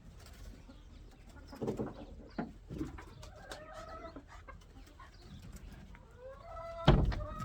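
Chickens clucking, with several short pitched calls. About seven seconds in comes a single loud thump.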